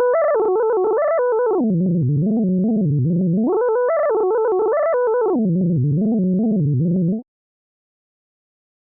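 A synthesized 'fractal wave' function played as a tone with overtones. Its pitch wiggles in small steps inside larger swings, going high, then low, then high and low again. It cuts off suddenly about seven seconds in.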